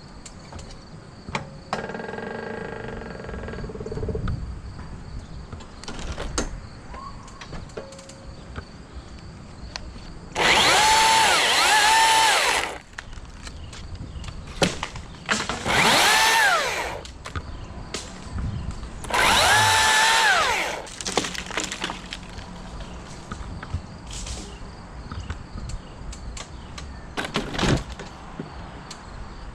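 Chainsaw revving in three bursts of a second or two each, its pitch rising and sagging as it bites into the wood, with scattered cracks and knocks between cuts. Crickets chirr steadily in the background.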